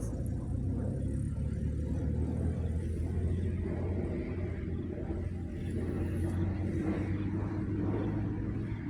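Car engine running with a steady low rumble, as while driving slowly.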